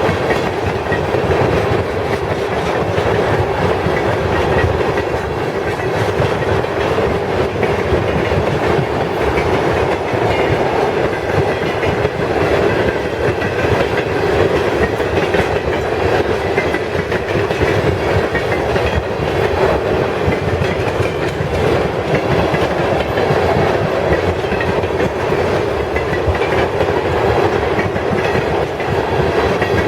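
Freight train cars rolling past steadily: a continuous loud rumble of steel wheels on rail with a dense run of fine wheel clicks.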